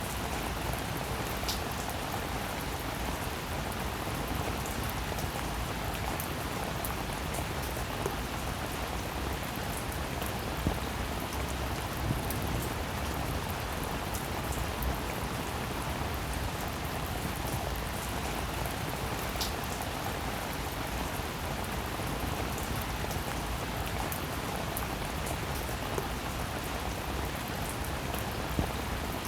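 Steady rain falling: a constant even hiss of rain on a surface, with scattered individual drops ticking sharply here and there.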